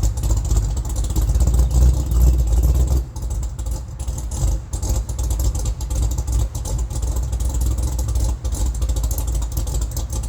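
LS V8 swapped into a Mustang Mach 1 running through its exhaust: a deep rumble, a little louder for about the first three seconds, then settling to a steady idle.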